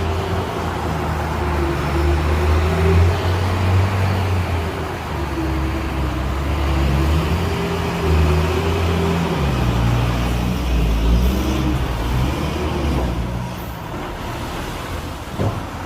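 Diesel engine of a Hyundai dump truck running under load, its pitch rising and falling with the throttle and dropping off in the last few seconds. A short sharp sound near the end.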